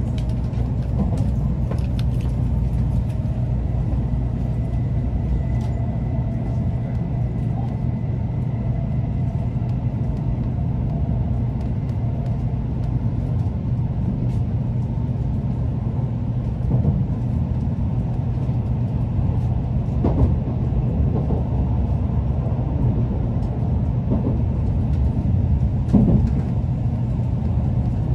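Running noise inside an N700A Tokaido Shinkansen car: a steady low rumble of the train on the rails, with a faint high whine through the first part that fades out, and several louder knocks in the second half.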